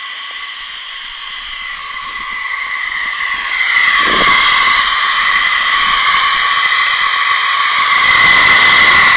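Steam locomotive's safety valve blowing off: a loud steady steam hiss with a ringing tone in it, growing louder about four seconds in. The valve is lifting well under its 110 psi blow-off setting.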